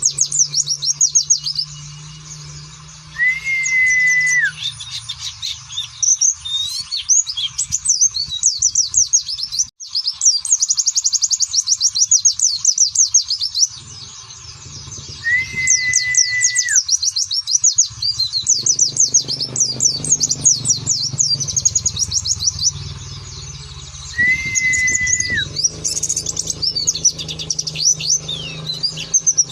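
White-eye (pleci) singing in long runs of very fast, high twittering chirps. Three times a lower, level whistle sounds for about a second and drops in pitch at its end.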